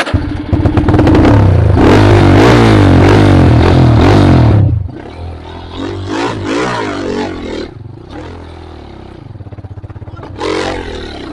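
Trail motorcycle engine revved hard for about five seconds, then dropping to a lower, uneven running with short throttle blips, and one more rev near the end.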